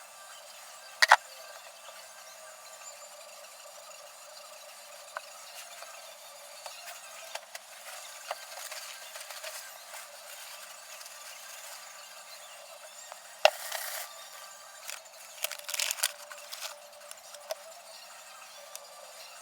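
Workshop handling noise: sharp clinks and knocks of metal tools and brake parts being picked up and set down. There is one loud knock about a second in and another midway, followed by a short run of smaller clicks and rattles, over a faint steady hiss.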